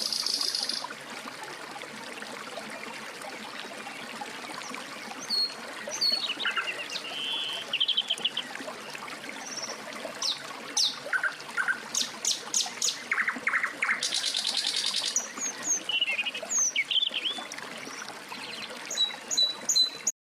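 Several songbirds singing and calling: short high chirps and whistled notes, with a rapid buzzing trill near the start and again about two-thirds of the way through. A steady rushing hiss runs underneath.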